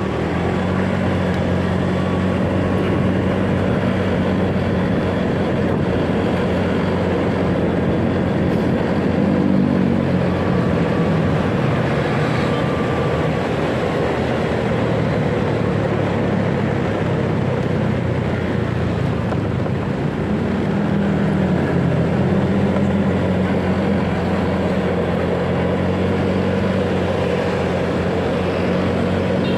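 Motorcycle engine running steadily while riding through city traffic, its pitch shifting as the throttle changes, about ten seconds in and again about twenty seconds in, over steady road and wind noise.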